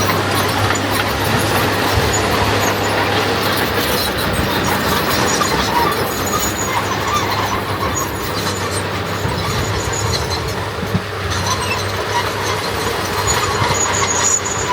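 Komatsu D21 crawler bulldozer working: its diesel engine runs steadily while the steel tracks squeal and clank.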